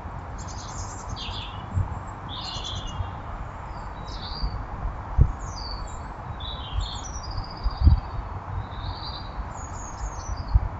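Small garden birds chirping and calling in short, high, quick phrases over a steady hiss. A few dull low thumps come through, the loudest about five and eight seconds in.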